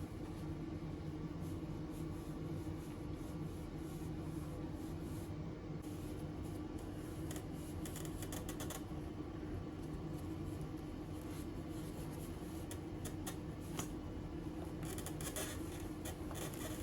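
Steady low hum in a small room, with faint scattered clicks and ticks.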